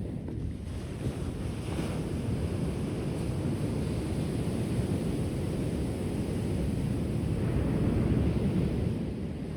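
Ocean waves washing onto a shore as a steady rushing noise, swelling to its loudest near the end as a wave comes in, then easing off.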